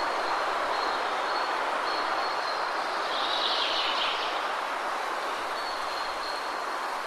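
Steady rushing of a waterfall, with a thin high note that comes and goes and a bird call about three seconds in.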